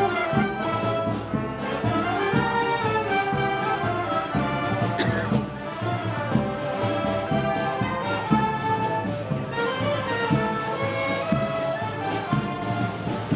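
Brass band music: trumpets and trombones playing a melody over a steady drum beat, in the style of Moros y Cristianos festival marches.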